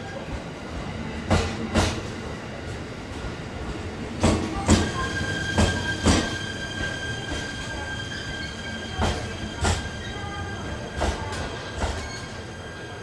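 Shinano Railway SR1 series electric train running slowly along the platform, its wheels knocking over the rail joints in pairs about half a second apart. A steady high squeal from the wheels and brakes rises for a few seconds in the middle.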